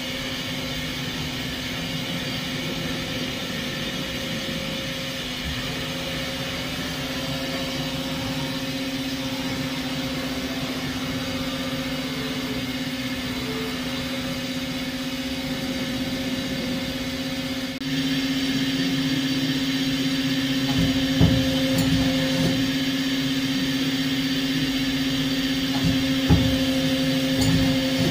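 Doosan PUMA V550 vertical CNC lathe running with a steady hum, getting louder about two-thirds of the way through, with a few short knocks near the end.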